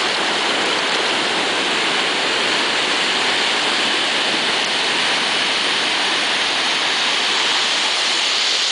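Ocean surf: a steady hiss of breaking waves and white water washing in, even and unbroken.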